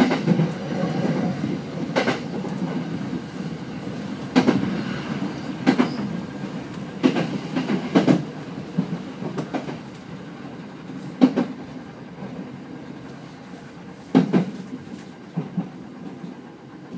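Running sound of a Rinkai Line 70-000 series trailer car (no traction motors) on the Saikyo Line: a steady wheel rumble with sharp clacks over rail joints every one to three seconds, the level easing off toward the end.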